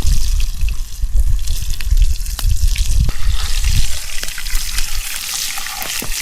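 Bacon sizzling in a pan over a campfire, with scattered sharp pops of fat and a heavy low rumble on the recording.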